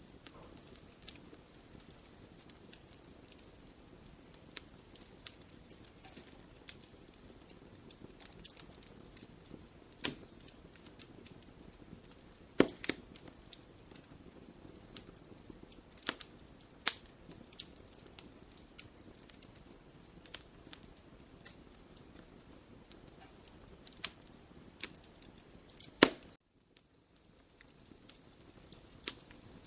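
Wood fire burning in a fireplace: irregular crackles and sharp pops over a low, steady hiss. Two pops, one about halfway and one near the end, are louder than the rest. Right after the second, the sound drops out for about a second.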